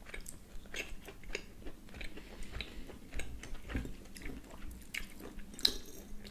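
Close-up chewing of grilled beef steak, with small scrapes and clicks of a knife and fork on plates as the steak is cut. A sharper clink of cutlery on a plate comes near the end.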